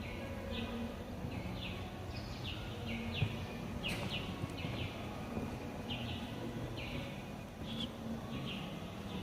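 A bird calling over and over, short falling chirps repeated roughly once or twice a second, over steady outdoor background noise, with a single sharp click about four seconds in.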